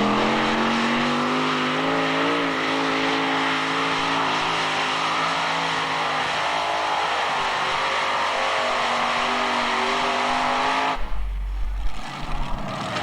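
Modified-class pulling tractor engine at full throttle under load, a loud steady drone that rises slightly about two seconds in. It breaks off abruptly about eleven seconds in, and low thumping rumbles follow.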